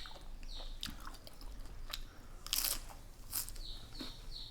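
Close-up crunching and chewing of crisp raw cabbage, with about six loud crunches at uneven intervals.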